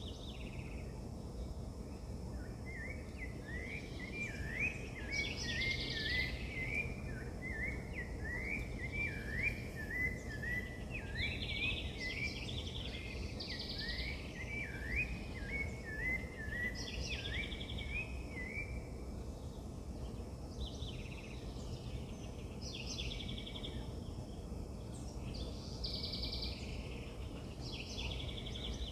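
Wild birds calling over a steady low background rumble. A long run of quick chirping notes goes from about two seconds in until near two-thirds of the way through, and short buzzy calls repeat every couple of seconds throughout.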